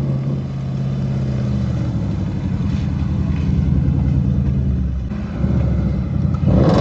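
Car engine running at a steady pitch, faltering briefly about five seconds in, with its pitch starting to swing up and down near the end.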